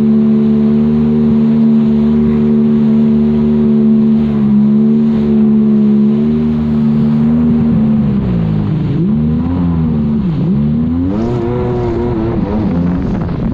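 Yamaha GP1200R jet ski's two-stroke three-cylinder engine running at a steady high pitch. About eight seconds in, the pitch drops and climbs again several times before it settles back to a steady note.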